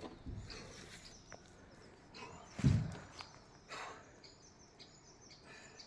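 Quiet outdoor forest ambience with small birds chirping now and then, and a few dull thumps like footsteps on the ground. The loudest thump comes just before the middle.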